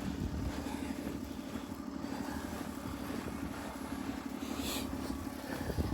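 A vehicle engine running steadily with a low, even hum, and a short hiss about four and a half seconds in.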